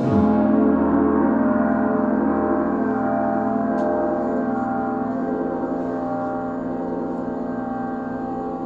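A gong struck once, its dense cluster of overtones ringing on and slowly fading.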